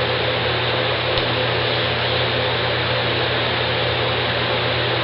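Steady background hiss with a low hum underneath, unchanging throughout, with a faint click about a second in.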